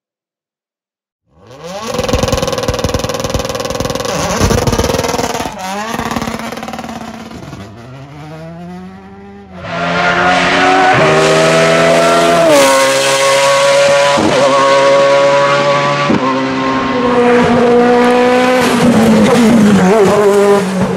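Hillclimb race car engines at high revs: one comes in about a second in, rising and dropping in pitch through gear changes before fading, then about ten seconds in a louder engine note cuts in and holds, with sharp dips in pitch at each upshift.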